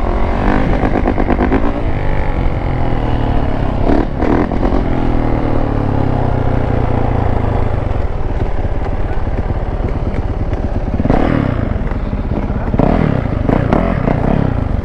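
Two-stroke dirt bike engine running steadily at low revs, close up.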